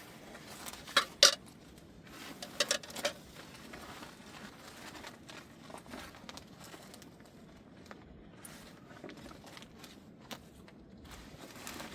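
A few sharp clicks and knocks, the loudest about a second in, as objects are handled and set down, then faint rustling and shuffling.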